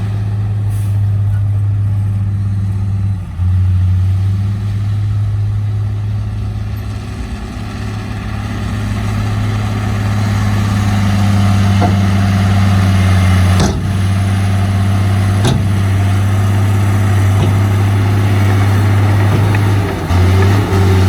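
Heavy dump truck's diesel engine running steadily with a deep hum, growing a little louder partway through. Two sharp knocks sound under two seconds apart, about two-thirds of the way in.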